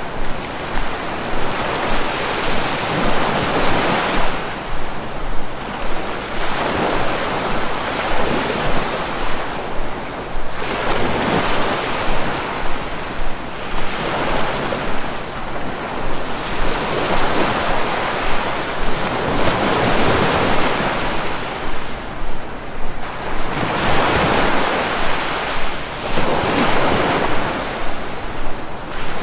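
Sea waves washing onto the shore, a steady rushing that swells and falls back every few seconds.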